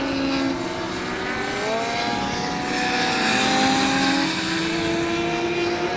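Classic superbike racing motorcycles running at high revs on track, several engines heard at once at different pitches. One engine's pitch climbs about two seconds in as it accelerates.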